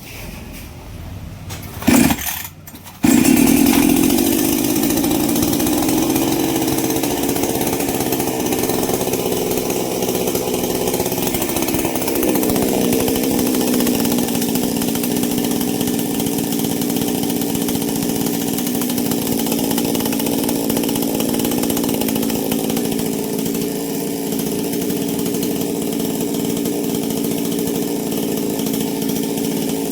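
Two-stroke chainsaw engine, freshly rebuilt with a new cylinder block and piston, firing briefly about two seconds in, then catching about a second later and running steadily, its pitch shifting slightly about twelve seconds in.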